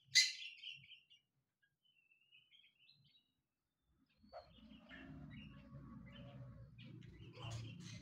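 A bird gives one loud, sharp chirp at the start, then faint twittering. From about halfway a steady low hum comes in, with scattered chirps over it.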